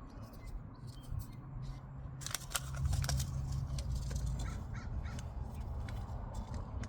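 Outdoor sounds: bird calls, with scattered short clicks and rustles close by, thickest a little before the middle, over a low rumble that fades out about two-thirds of the way through.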